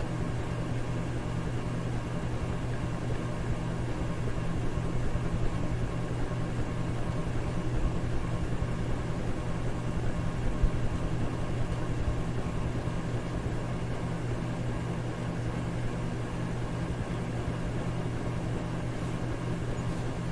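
Electric fan running steadily: an even whooshing noise with a low motor hum.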